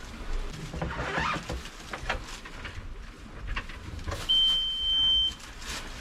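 A few light clicks and knocks, then one steady high-pitched beep about a second long from the boat engine's instrument-panel buzzer, typical of the key being switched on just before cranking the engine after a fuel-filter change and air bleed.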